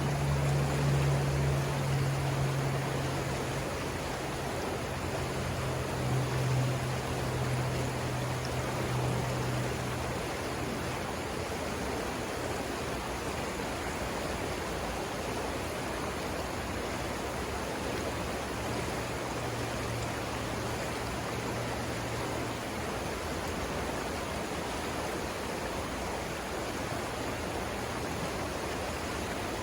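River water rushing over rapids, a steady even rush. A low steady hum runs under it for about the first ten seconds, fades, and returns faintly for a few seconds past the middle.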